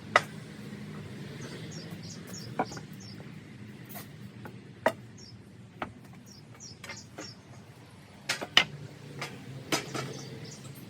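Several sharp knocks and clicks, like hard objects being handled and set down, at irregular intervals over a low steady hum, with two short runs of faint high chirps in the background.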